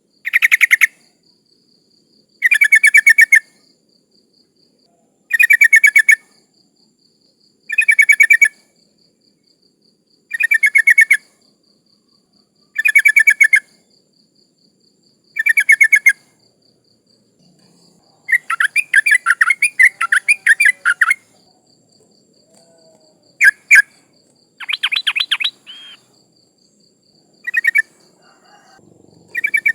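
Yellow-vented bulbul (trucukan) calling: a short, rapid bubbling phrase repeated about every two and a half seconds, eight times. It then breaks into a longer jumbled chatter lasting about three seconds, followed by a few short calls. The uploader labels it a female calling to males, played as a lure.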